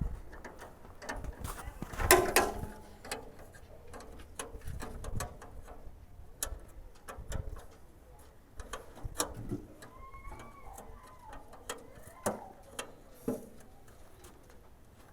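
Scattered light knocks and clicks at irregular intervals, with a louder clatter about two seconds in and a brief bird chirp about ten seconds in.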